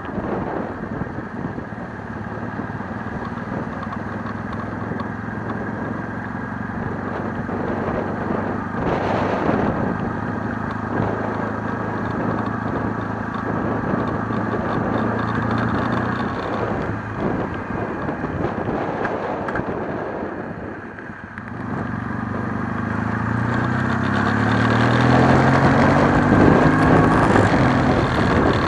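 Kawasaki W650 parallel-twin motorcycle engine running at a steady pace while riding, easing off briefly about three quarters in, then pulling away with the engine pitch rising as it accelerates.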